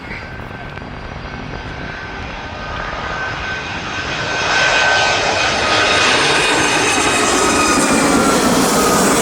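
Jet airliner on landing approach passing low overhead: the engine noise grows louder about four seconds in and stays loud, with high whining tones that slide slightly lower as it passes.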